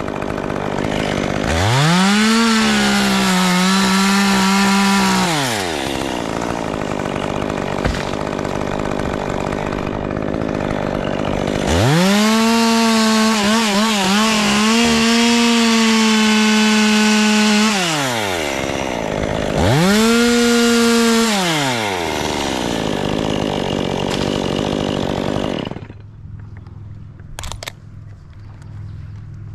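Two-stroke chainsaw revving up to full throttle for three cuts through beech wood, the middle one the longest, with the revs wavering under load, and running at a lower, steady speed in between. Its sound drops away near the end.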